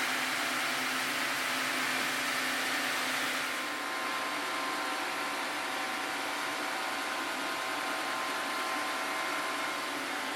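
Sawmill running steadily while milling a Formosan sweetgum log. About three and a half seconds in its sound changes: the hiss thins out and a low hum stops.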